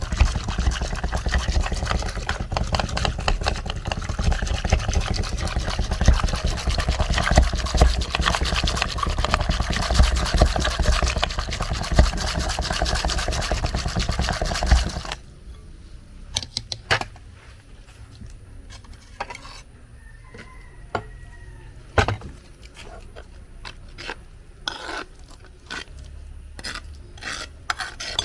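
Rapid, continuous scraping and rubbing of food preparation for about fifteen seconds that stops abruptly, followed by scattered light clicks and knocks of kitchen utensils.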